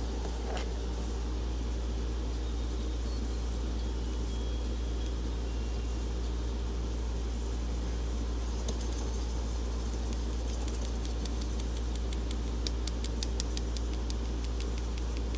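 A steady low mechanical hum, like a motor or fan running, holding an even level. From about halfway on, faint rapid ticks sound over it.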